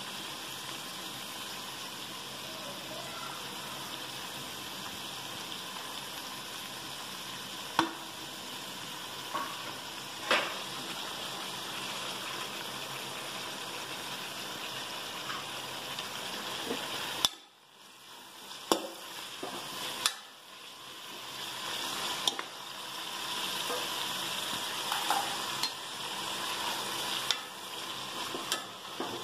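Vegetables, onion and tomato sizzling in ghee in an aluminium pressure cooker: a steady frying hiss. A little over halfway through the sound drops away suddenly, then the sizzle builds again while a metal ladle clinks and scrapes against the pot as it stirs.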